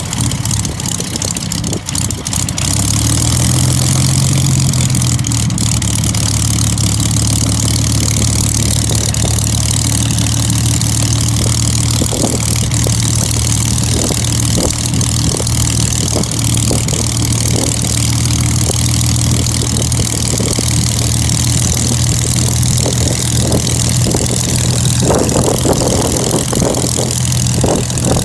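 An old piston engine running steadily at idle, a deep even hum, with scattered sharp pops through the second half and a brief rise in noise near the end.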